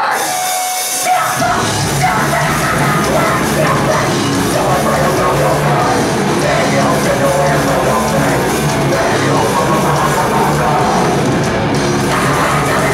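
Live heavy metal band playing loud, with distorted guitars and drums and some yelled vocals. The full band, with its low end, comes in about a second in.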